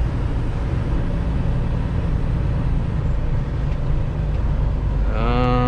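Steady low rumble of a Freightliner Cascadia semi truck's engine and drivetrain, heard inside the cab. Near the end a steady pitched tone sounds for under a second.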